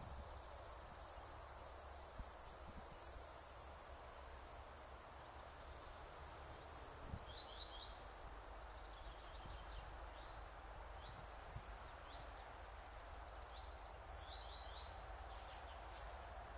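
Faint bird calls, short chirping trills in several groups from about seven seconds in, over a steady hiss and low rumble from the trail camera's microphone, with a few soft knocks.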